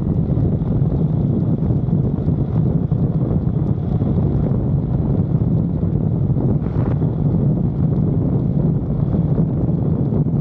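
Wind buffeting the microphone over a steady low rumble from a moving vehicle.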